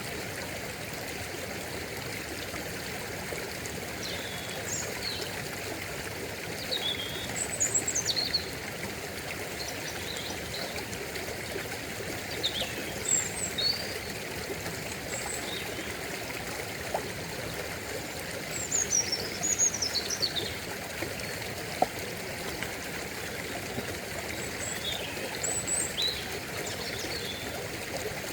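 A stream running steadily, with high bird chirps and calls coming in several short scattered bunches over it. A single sharp click about three-quarters of the way through.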